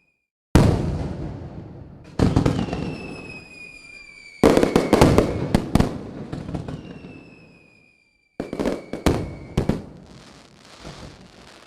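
Aerial fireworks going off: sharp booms with rumbling tails, two quick runs of crackling bangs, and two long whistles sliding slightly down in pitch.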